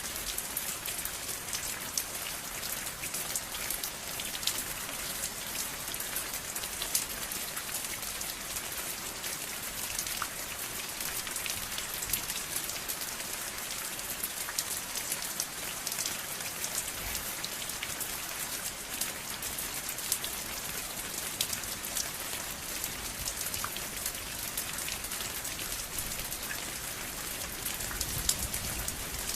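Steady rain falling, an even hiss of rainfall with many individual drops striking sharply throughout.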